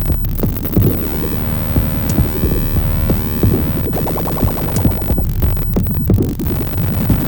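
Electronic music played live on hardware synthesizers and groove boxes: a throbbing low bass and steady drum hits, with a pitched layer that sweeps up and back down through the middle.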